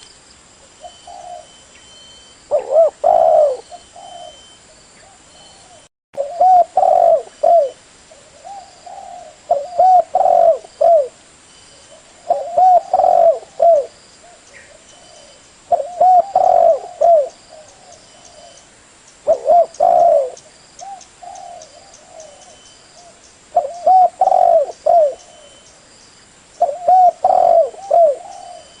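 Spotted dove cooing: a short phrase of several low coos, repeated about every three to four seconds, eight times in all. This is a lure call for drawing in other spotted doves.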